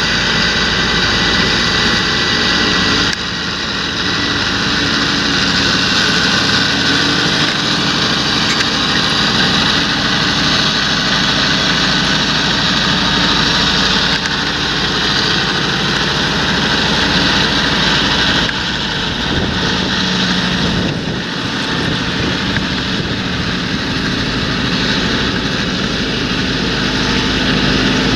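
Large John Deere tractor engine running steadily under load while working a field. The sound shifts abruptly about three seconds in and again about two-thirds of the way through.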